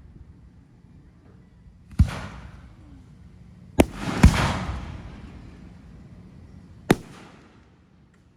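Fireworks going off in a hand-fired display: four sharp bangs, each followed by a rolling echo that dies away. They come at about two seconds in, two close together near the middle (the second the loudest, with the longest rumble), and one near the end.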